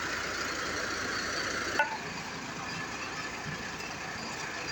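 Novo 655 CRDi tractor engine running steadily, with a sharp click about two seconds in.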